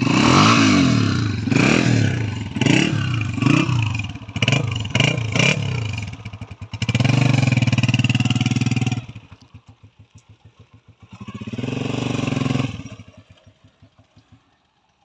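Honda 125 motorcycle's single-cylinder four-stroke engine revved in a series of quick blips, then held at high revs for about two seconds. It drops to a slow putter, is revved once more and fades out as the bike rides off.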